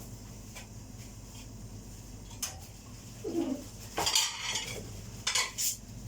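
Dishes and cutlery clattering and clinking as they are handled and washed, starting about halfway in, over a steady low hum.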